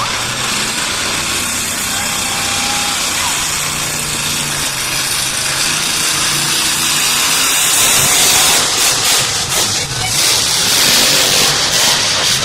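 Monster truck engines running and revving loudly, over a steady loud wash of crowd noise, growing louder about eight seconds in.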